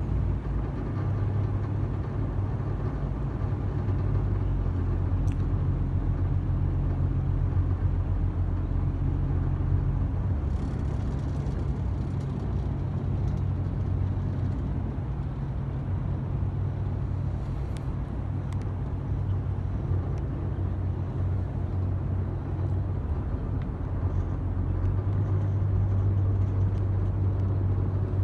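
Yakatabune boat engine running steadily: a continuous low drone.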